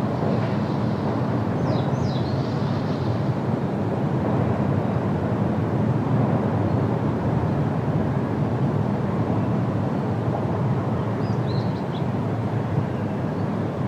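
Steady wind rushing through forest foliage, a low, even rush. Short high bird chirps come about two seconds in and again twice near the end.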